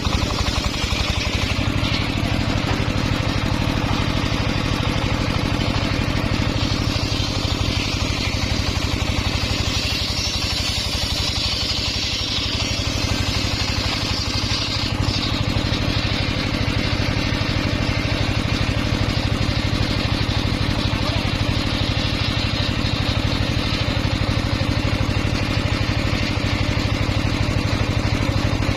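Engine of a homemade circular sawmill running steadily, with a hiss higher up that swells for a few seconds mid-way.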